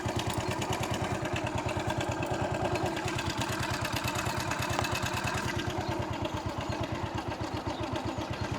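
Hero Honda Passion Plus motorcycle's single-cylinder four-stroke engine running at a steady idle, an even rapid putter of firing pulses.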